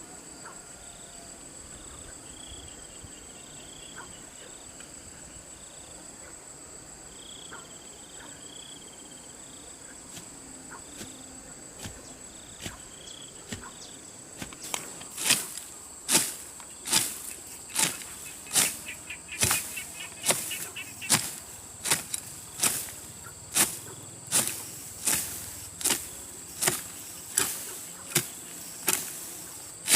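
Insects droning on a steady high note throughout. About halfway through, a hand tool starts chopping into grassy ground in a steady rhythm of sharp strikes, a little more than one a second, louder than the insects.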